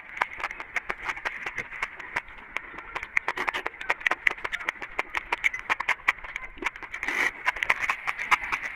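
Close-miked eating sounds: a rapid, irregular run of crisp crunching and mouth clicks as food is chewed, with a denser crunch about seven seconds in.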